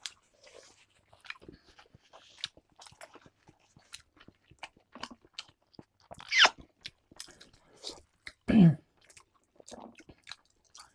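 Two people chewing steamed chicken momos close to lapel microphones: wet mouth clicks and smacks. Two louder brief sounds slide down in pitch about six and eight and a half seconds in, the second lower.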